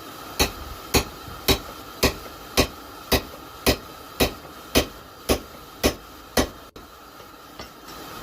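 Hand hammer striking a round punch being driven into hot steel bar stock to punch an eye, about two ringing blows a second in an even rhythm, a dozen blows, then stopping.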